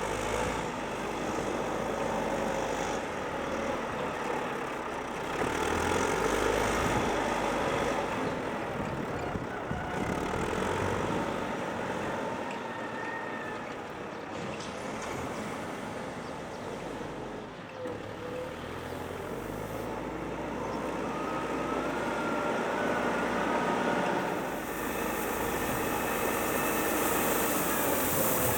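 Volvo BM 6300 backhoe loader's diesel engine running under varying load while levelling soil, swelling and easing in loudness, with a faint whine over it.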